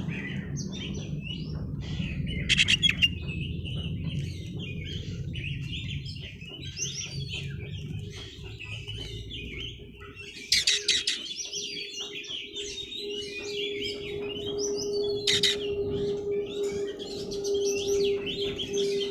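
Oriental magpie-robin singing non-stop: a dense, varied run of chirps and whistles, broken by a few sharp, loud harsh notes.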